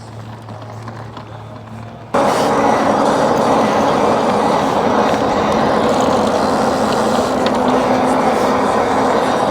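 A quiet low hum with a few steady tones, then about two seconds in a sudden switch to loud, steady wind and road noise on a bike-mounted microphone while the e-bike is moving.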